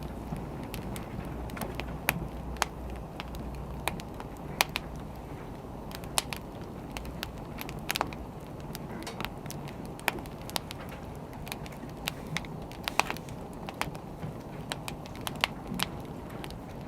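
Wood fire crackling: irregular sharp pops and snaps, several a second and uneven in loudness, over a steady low background noise.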